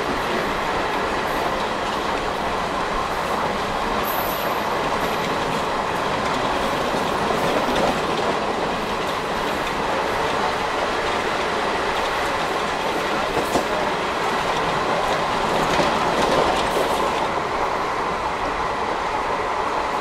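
ICF passenger coach running at speed. The wheels make a steady rolling noise on the rails, mixed with wind noise, and it swells slightly near the end.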